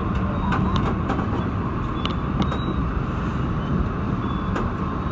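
Passenger carriage of a V/Line H set train running along the track, heard from inside: a steady low rumble of wheels on rail, with a few sharp clicks and rattles.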